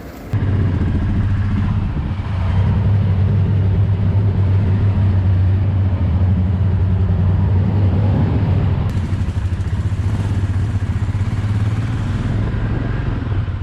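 Royal Enfield Himalayan's single-cylinder engine running at a steady cruising speed.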